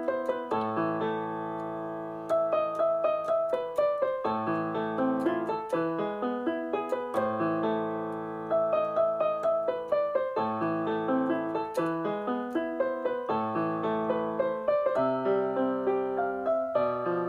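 Background piano music: a gentle melody of repeated phrases over sustained chords.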